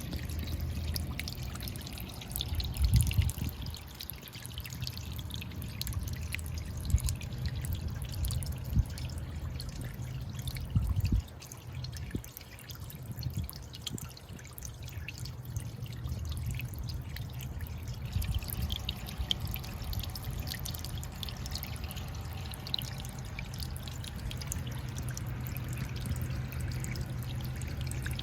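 Small sea waves washing and sloshing against a rocky shore, with trickling, dripping water and many small splashes. There are louder surges about 3, 7, 9 and 11 seconds in, over a steady low rumble.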